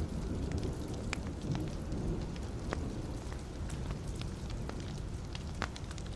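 Wood fire burning in a fireplace: a steady low rush of flame with scattered sharp crackles and pops from the logs.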